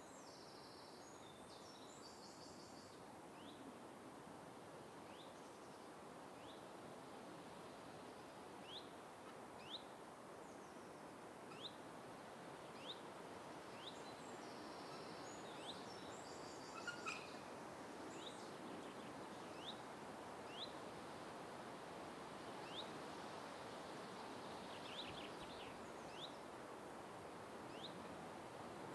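Faint open-air ambience: a steady background hiss with a bird repeating a short, high chirp every second or two. There are two brief bursts of higher twittering, one near the start and one about halfway through.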